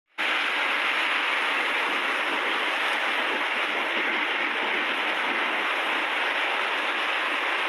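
Heavy rain pouring down, a steady, even rushing noise that holds at one level throughout.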